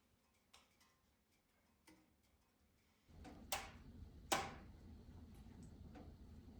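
Wood fire crackling in a wood stove: a few faint scattered crackles, then a low steady rumble of the burn comes in about halfway, with two loud sharp pops a little under a second apart and fainter crackles after.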